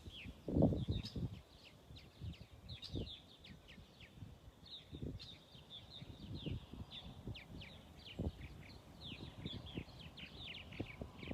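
A bird calling over and over in short, quick chirps that each drop in pitch, several a second, over irregular low rustling and thumps of movement through brush.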